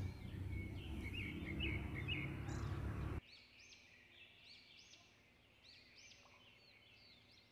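Birds chirping in the background, a string of short notes that each rise and fall, over a low steady hum. The hum cuts out suddenly about three seconds in, leaving only the faint chirps.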